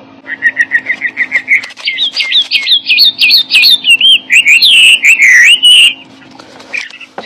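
Songbird singing: a quick run of repeated chirps, then varied swooping whistled notes, stopping abruptly about six seconds in, over a faint steady low hum.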